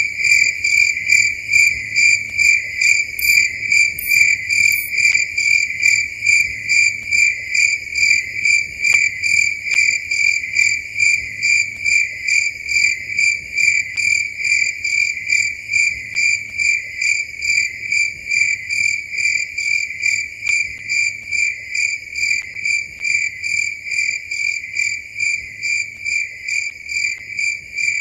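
Cricket chirping in a steady, even rhythm of short repeated chirps at night.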